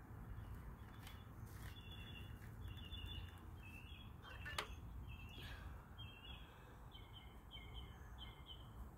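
Faint outdoor ambience: a bird chirping over and over in short, high calls over a steady low rumble, with one sharp click about four and a half seconds in.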